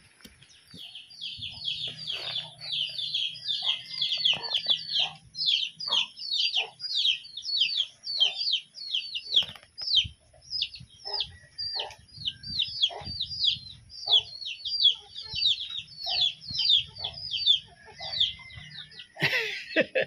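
A bird chirping: a long, fast run of short, high, falling chirps, about three a second, with a brief pause about halfway through.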